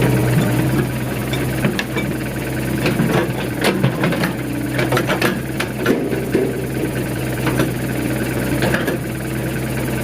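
Nissan BD30 four-cylinder diesel in a Hitachi EX60 backhoe running steadily at idle, now that its injection pump has been put right. A few sharp clicks come over it around the middle.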